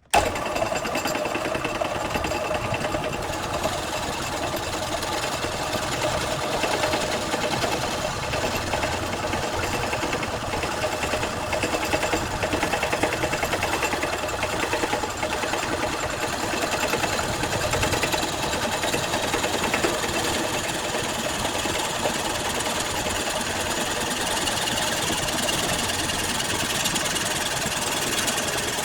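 A woodworking power tool running steadily under load, with an even, dense mechanical noise that cuts in suddenly at the start.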